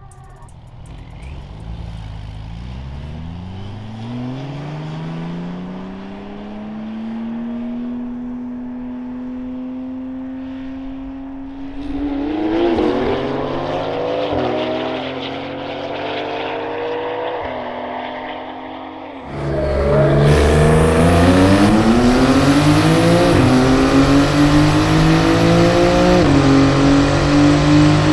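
Porsche 911 twin-turbo flat-six engines pulling hard at full throttle. The engine pitch climbs steadily and drops in quick steps at each dual-clutch upshift. About two-thirds of the way in the sound jumps much louder, heard from inside the tuned 992 Carrera 4S's cabin, and keeps climbing through further upshifts.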